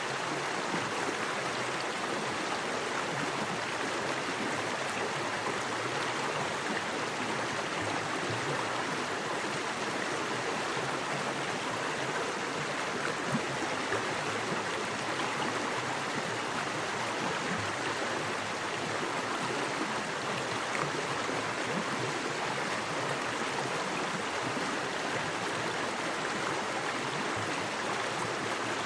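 Small creek with fast water rushing over rocks: a steady, even rush of flowing water.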